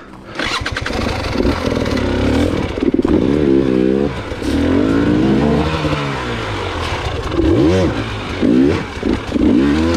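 Dirt bike engine revved hard in repeated bursts, its pitch climbing and dropping again and again, as the bike is worked over rough rocky ground. It comes in suddenly just after the start.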